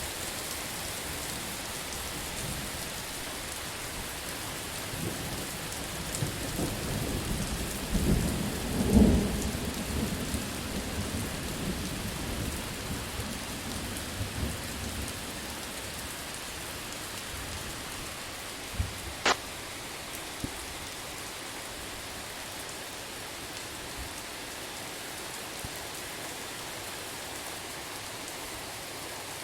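Steady rain falling, with a low roll of thunder that swells about five seconds in, is loudest a few seconds later and fades away. A few sharp snaps come about two-thirds of the way through.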